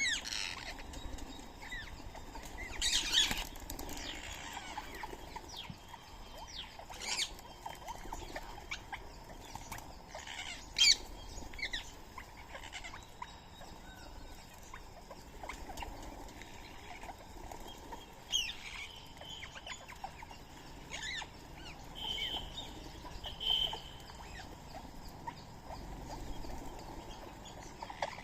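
Birds chirping and calling: short, scattered squeaky notes that come in ones and twos, with a louder noisy burst about three seconds in and a single sharp click near the middle.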